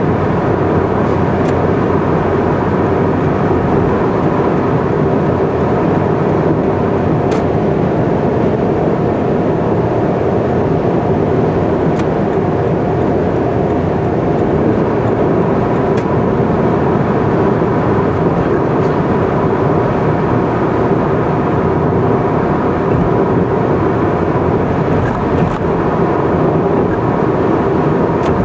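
Car driving steadily at expressway speed: a constant drone of engine and tyre noise, with a few faint clicks.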